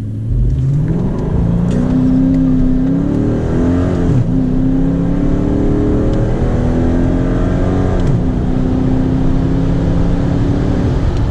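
5.7 Hemi V8 with a muffler delete at full throttle, accelerating hard. The revs climb steadily and drop at two automatic upshifts, about four and eight seconds in, then climb again.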